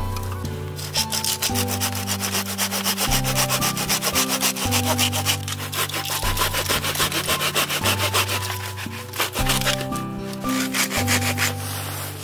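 A blade cutting wood in quick, even rasping strokes, many per second, like a small hand saw working through firewood. It starts about a second in and stops near the end, over steady background music.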